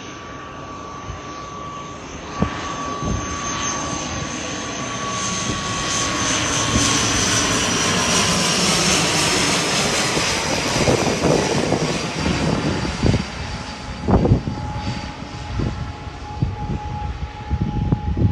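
ATR 72-600 turboprop airliner's engines and propellers running during its landing approach: a steady noise with a high whine whose pitch falls slightly, loudest about halfway through. A few short knocks come in the last few seconds.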